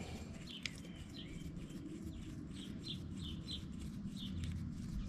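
Small birds chirping in short, repeated calls at an irregular pace, over a faint low background rumble.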